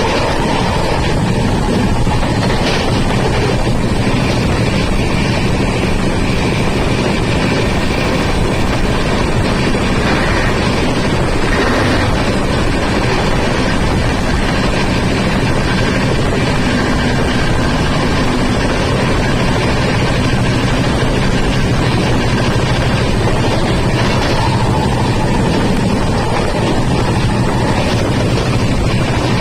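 Steady rumble and rush of a moving train, with a low hum running under it throughout.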